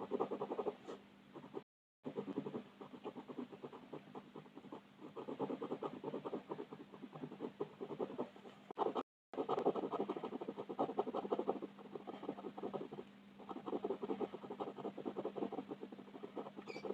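Colour pencil shading on paper: quick back-and-forth scratchy strokes in steady runs, broken twice by brief dead gaps. A faint steady hum lies underneath.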